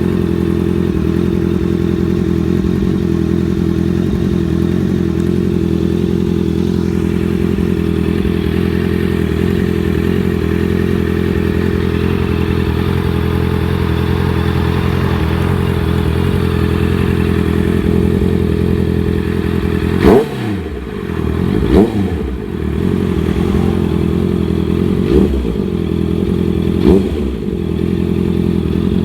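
Honda CBR650F's inline-four engine idling steadily through an aftermarket DAIVO exhaust, then revved in four quick throttle blips after about twenty seconds, each dropping back to idle.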